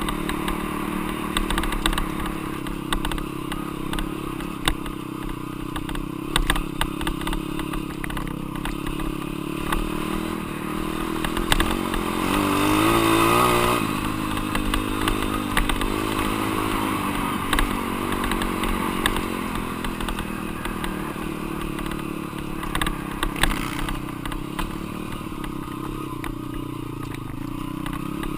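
Dirt bike engine being ridden, its pitch rising and falling with the throttle, with one longer rev climbing to a peak about thirteen seconds in before dropping away. Scattered sharp knocks and rattles run through it.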